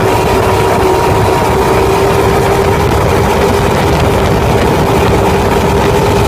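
The 1959 Powercat boat's engine running steadily, a constant hum that holds one pitch.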